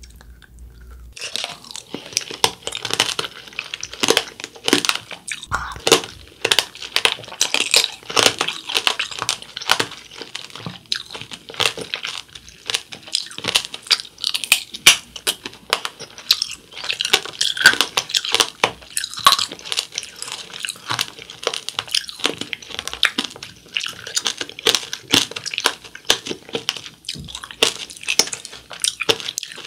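Hard candy shell of a mandarin tanghulu (candied mandarin) cracking and crunching as it is bitten and chewed, with wet chewing of the fruit underneath. Rapid sharp crunches start about a second in and run on irregularly.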